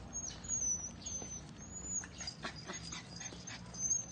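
Puppy whimpering in a string of thin, high-pitched squeals, with a few short clicks or scuffs about halfway through.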